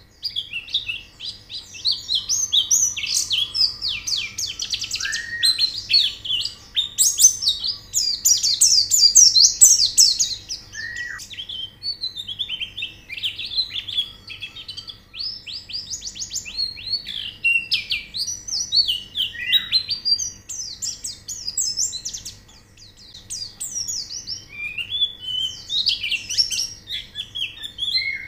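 White-eye (pleci) song: fast, high twittering phrases that run on almost without a break, with a short pause a little after two-thirds of the way through.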